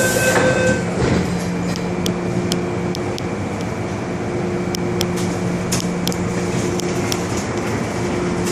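MTR Island Line train interior: the door-closing warning beeps stop under a second in, and a knock follows about a second in as the doors shut. After that the train's steady electrical and ventilation hum runs on, with occasional light clicks.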